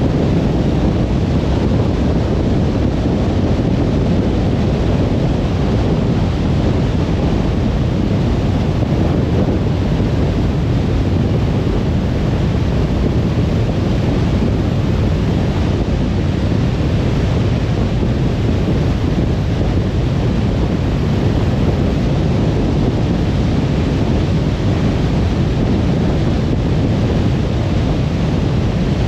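Steady road noise of a car cruising on a motorway: a constant low rumble of tyres and wind, even and unbroken.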